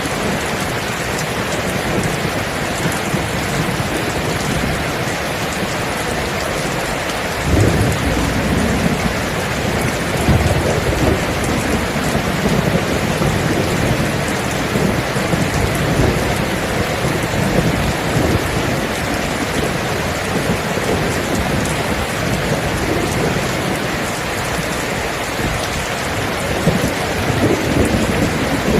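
Steady rain in a thunderstorm. About a quarter of the way through, a low rumble of thunder comes in suddenly and keeps rolling, swelling and fading, under the rain.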